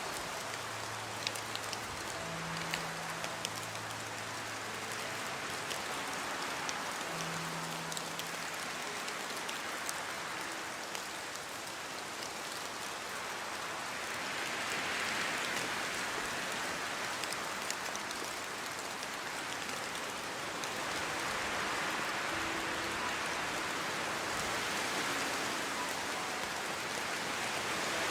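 Steady rain falling on a surface, with individual drops ticking sharply through the hiss; it swells a little louder a few times.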